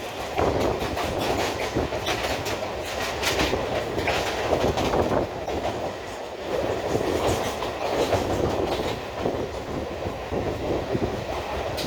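Suburban electric local train running at speed, heard from inside the coach: a continuous rumble with wheels clattering over rail joints.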